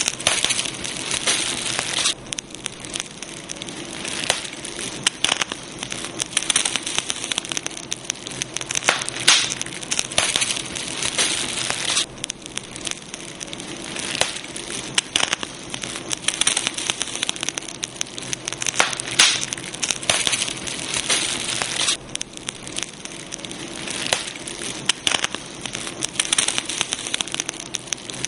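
Campfire crackling: burning wood giving off dense, irregular sharp snaps over a steady hiss.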